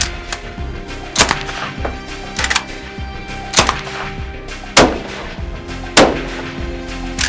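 Sharp gunshot-like bangs at an even pace, about one every second and a quarter, six in all, over music with a steady held chord.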